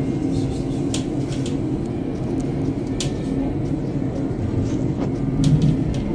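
Steady rumble and hum of a passenger train running along the track, heard from inside the carriage, with a few sharp ticks.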